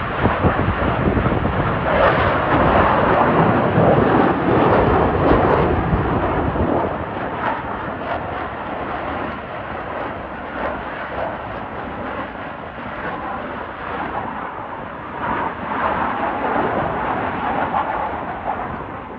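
F-35 fighter jet flying past, its single turbofan engine making a loud rushing rumble that is strongest over the first several seconds and then fades. The jet noise swells again briefly near the end.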